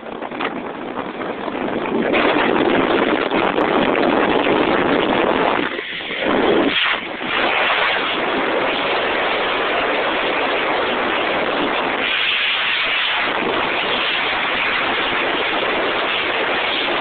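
Maruti Suzuki Esteem car driving at high speed, around 165–170 km/h: a steady rush of wind and road noise, with brief dips about six seconds in and again near the middle.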